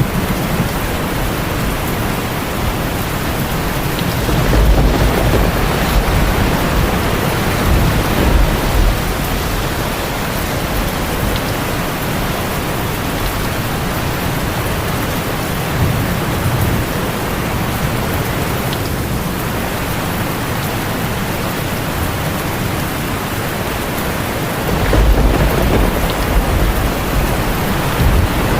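Heavy rain drumming steadily on a tin roof, with low rolls of thunder rumbling in about four seconds in and again near the end.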